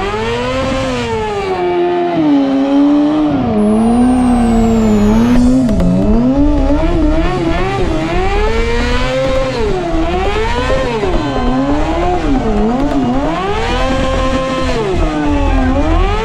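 Motorcycle engine revving hard, its pitch rising and falling again and again as the throttle is worked.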